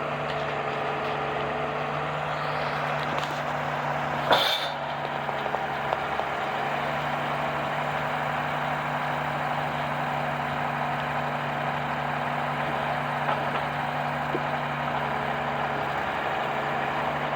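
Heavy diesel engine running steadily at idle, a constant low hum. A single brief, sharp noise about four seconds in stands out above it.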